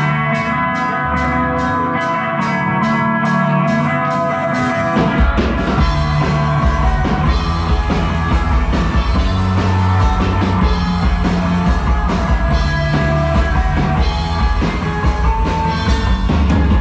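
Rock band playing an instrumental intro live: guitar chords over a steady ticking beat of about four a second, then bass and the full drum kit come in about five seconds in.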